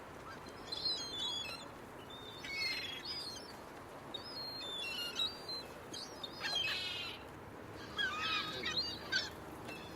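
Gulls calling in several short, separate bursts of high calls spread across a few seconds.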